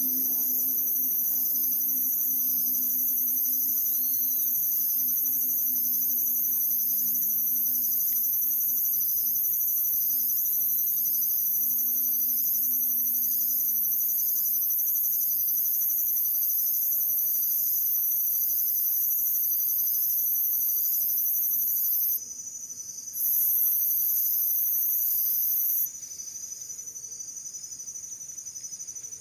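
Loud, continuous high-pitched insect chorus of crickets or cicadas with a slow, regular pulsing. It cuts out briefly about three quarters of the way through, then stops a few seconds before the end.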